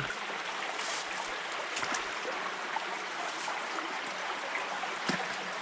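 Stream water running steadily, an even rushing flow with a few faint clicks.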